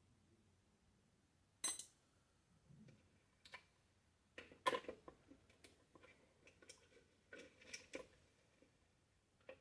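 Faint scattered clicks and clatters of blender parts and small tools being handled during disassembly, with a sharper click about one and a half seconds in and a busier cluster around five seconds in.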